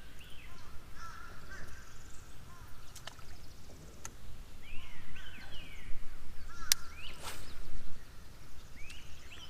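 Birds calling in several short groups of quick rising-and-falling notes, over a low steady outdoor rumble. A few sharp clicks break in, the loudest about two thirds of the way through.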